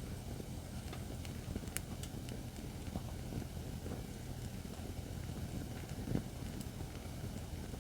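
Acacia firewood burning in a fire pit stand: a steady low rumble under scattered, irregular sharp crackles and pops, the loudest about six seconds in.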